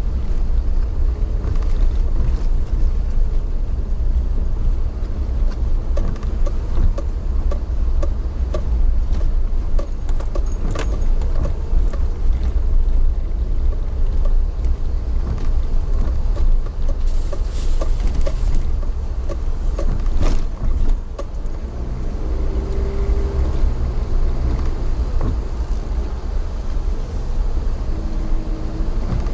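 Steady low rumble of a moving vehicle heard from inside, with frequent small rattles and clicks. A humming tone comes in for a few seconds in the last third.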